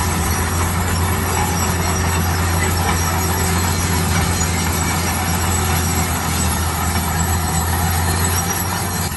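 Heavy construction machinery's diesel engine running steadily under load: a strong low hum beneath a broad, even mechanical noise.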